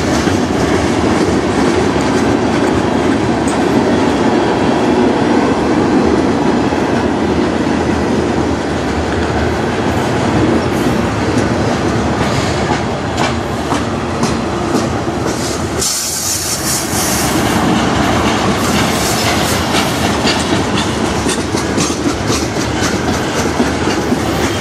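Freight train of tank cars and covered hoppers rolling steadily past, its wheels clicking over the rails. A short burst of high-pitched wheel squeal comes about two-thirds of the way through.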